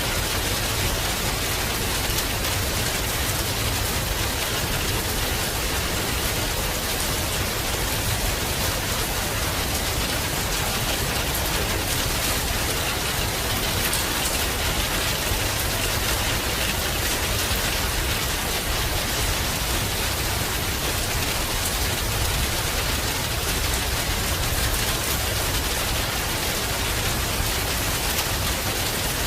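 Steady heavy rain, a dense even hiss of falling rain with the patter of drops hitting surfaces.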